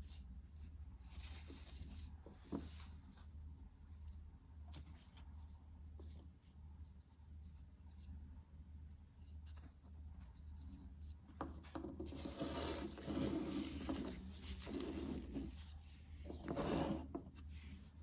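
Hand rubbing and scraping on an object being restored, with scattered small clicks and knocks, over a steady low hum. The rubbing grows louder about two-thirds of the way through, and comes back in a short burst near the end.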